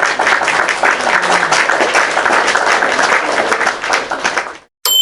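A crowd applauding: a dense, even patter of many hands clapping that cuts off suddenly near the end. A bright ding starts just after it.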